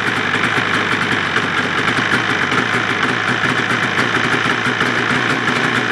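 2003 Polaris RMK 700 snowmobile's two-stroke twin engine idling steadily while warming up, through its stock muffler.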